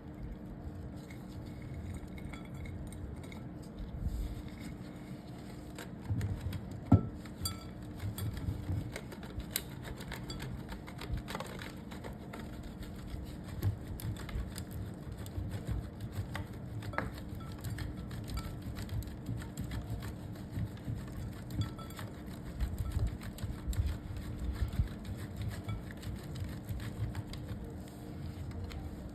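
A blade scraping and shaving a bar of soap: a run of small, irregular crunches and scrapes, with one sharper click about seven seconds in. A faint steady hum lies underneath.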